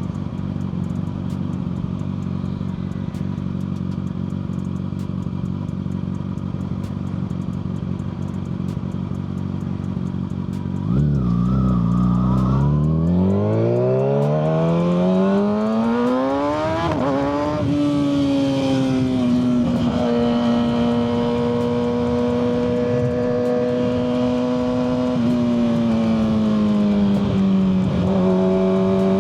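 Kawasaki ZX-6R 636's inline-four through a Yoshimura full exhaust, running steadily at low revs, then about eleven seconds in getting louder and accelerating with a rising pitch, shifting up, and holding a steady cruising note.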